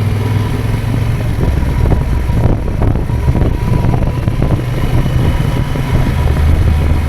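Motorcycle engine running under way, its note dropping and rising a few times as the throttle and speed change.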